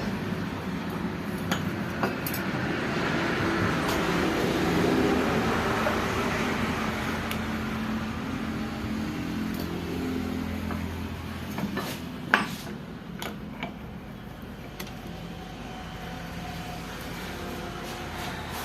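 A motor-vehicle engine running with a steady low hum that swells to a peak about five seconds in and then slowly fades. A few sharp metallic clinks are heard, the loudest about twelve seconds in.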